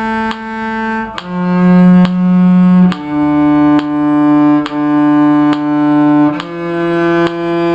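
Cello bowing a slow line of held notes, each note re-bowed with a fresh stroke under a second apart. The pitch steps down twice, then back up near the end.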